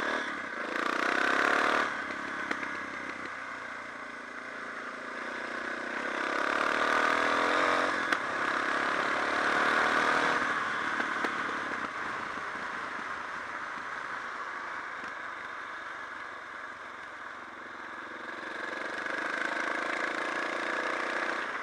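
Suzuki DR650's single-cylinder engine running under way, rising and falling in pitch as the throttle is opened and closed, with three louder pushes: near the start, through the middle and near the end.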